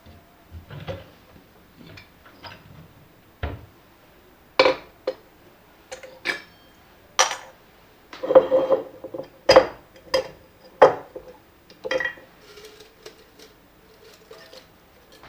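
Irregular clinks and knocks of dishes and cutlery being handled: about a dozen sharp strikes, each with a brief ring.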